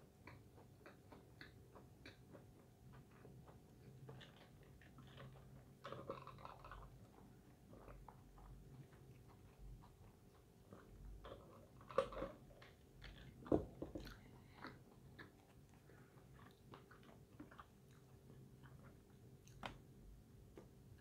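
A person chewing breaded fried food close to the microphone: faint, with many small mouth clicks and a few louder bites about 6, 12 and 13.5 seconds in.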